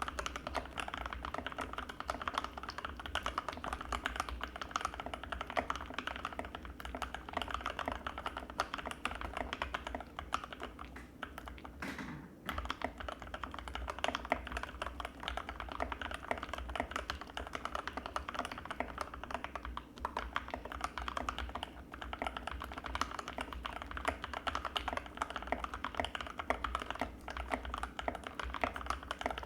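Fast, continuous typing on an Anne Pro 2 mechanical keyboard with Gateron Red linear switches: a dense stream of key clacks, with a short pause about twelve seconds in.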